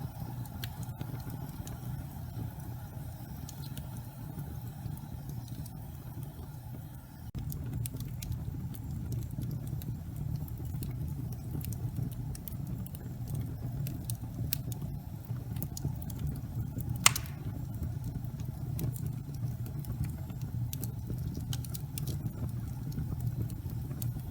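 Gas fireplace flames burning with a steady low rumble and scattered small crackles, and one sharp crack about two-thirds of the way through. The rumble grows slightly louder about a third of the way in.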